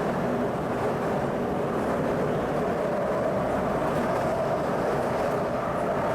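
Shanghai Metro Line 11 train running along the track: a steady rumble of wheels and running gear, with a steady whining tone growing in about halfway through.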